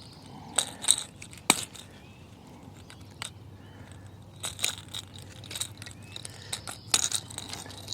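Scattered light clicks, knocks and rattles of handling in a boat, as a just-landed bass and its topwater lure are dealt with, over a faint steady low hum.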